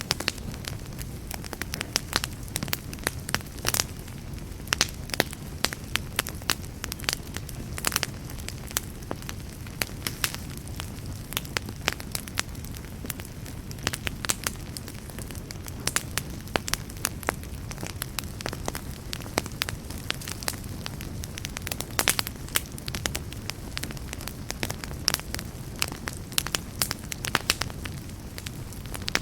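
Wood fire crackling and popping: sharp, irregular snaps several times a second over a steady low rumble of burning.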